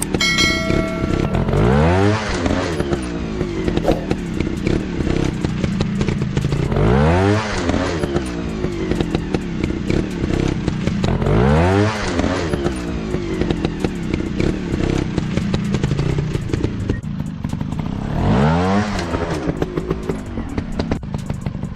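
Dirt bike engine running, revved up sharply four times with the pitch rising quickly each time, dropping back to a steady run in between, with clatter and knocks from the bike moving over rough ground.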